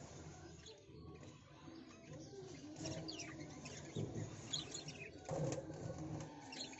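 Birds chirping, with short high calls scattered throughout and a low rumble underneath.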